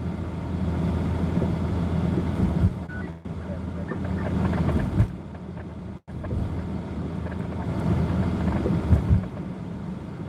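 Car driving, heard from inside the cabin: a steady low engine and road rumble with a few low thumps. The sound cuts out abruptly twice.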